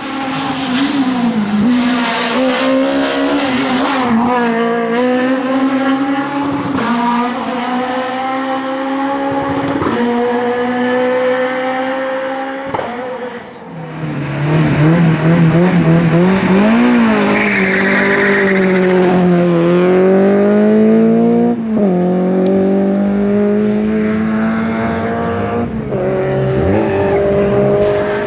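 Rally cars driven flat out on a special stage: engines revving high, with the pitch climbing through each gear and dropping at the shifts and braking downshifts, and tyres squealing. One car passes, and a second takes over about fourteen seconds in.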